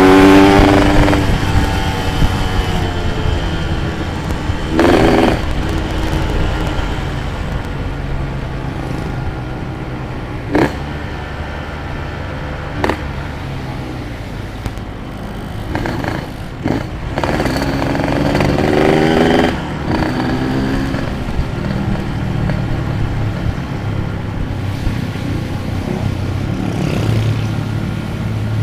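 Yamaha RX-King's two-stroke single-cylinder engine running on the move, revving up near the start and again about two-thirds of the way through, with a few short sharp clicks along the way.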